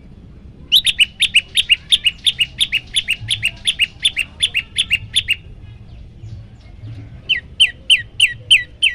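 Prenjak lumut (olive-backed tailorbird) singing a fast run of identical sharp, falling notes, about four to five a second, that stops near the middle and starts again about two seconds later. This is a tutor song used to train caged songbirds.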